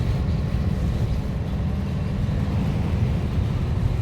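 Scania 141's 14-litre V8 turbo diesel heard from inside the cab while the truck drives along: a steady, even low rumble.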